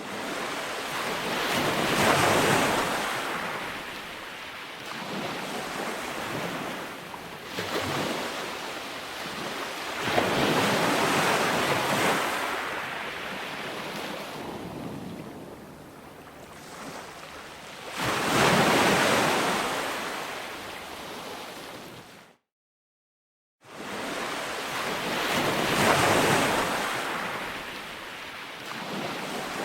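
Ocean waves breaking and washing up on a beach, each surge swelling and fading about every eight seconds. The sound cuts out completely for about a second roughly two-thirds of the way through, then the surf resumes.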